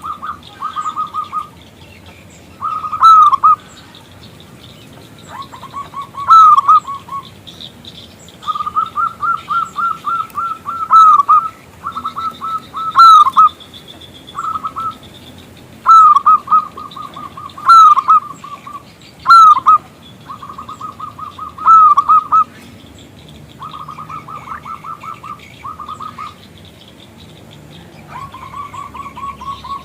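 Zebra dove (perkutut) cooing in repeated phrases every two to three seconds. Each phrase is a rapid run of short staccato notes with a few louder swooping notes. Faint high chirps of smaller birds sound behind it.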